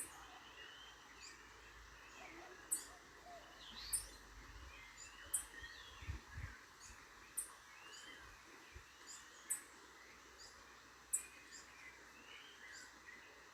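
Several birds chirping and calling, with short gliding notes and a sharp, very high note repeated about every one to two seconds, over a steady background hiss.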